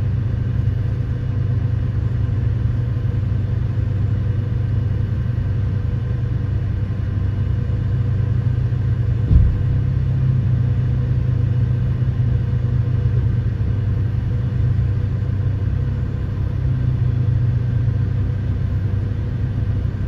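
Large diesel engine of a Hitachi 2500 mining excavator running steadily under work, a deep even rumble, with one short knock about nine seconds in.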